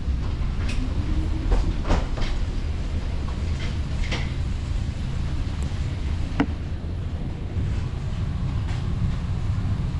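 Steady low rumble of an airliner cabin during boarding, with scattered knocks and clicks of luggage and overhead bins. The sharpest knocks come around two seconds in and again past the middle.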